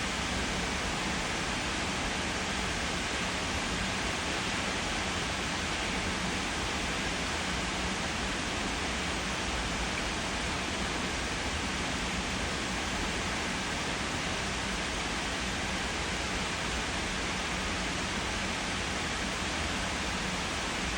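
Heavy rain pouring down in a steady, even hiss that holds level throughout.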